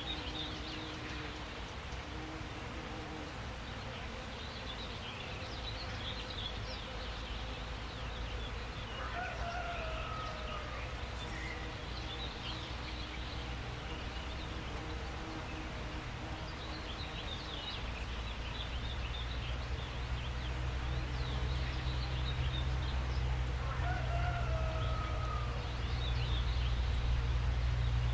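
Small songbirds chirping and twittering, with a short two-part call heard twice. A steady low rumble runs beneath and grows louder in the second half.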